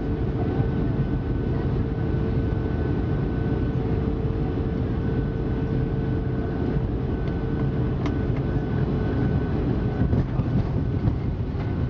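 Cabin noise of a Boeing 757 during landing: a steady low rumble of engines, airflow and airframe, with a steady whine that fades out about nine or ten seconds in. A single sharp click about eight seconds in.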